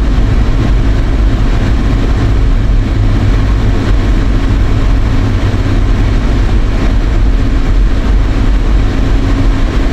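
Steady road and engine rumble inside a moving car's cabin, even throughout.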